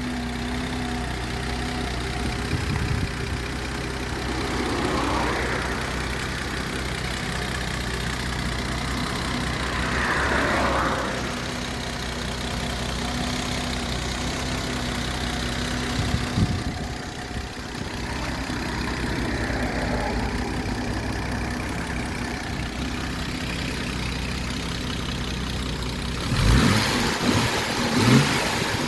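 Mercedes-Benz W116 280S's 2.8-litre M110 double-overhead-cam straight-six running at idle, with a few brief rises in revs along the way and louder bursts near the end.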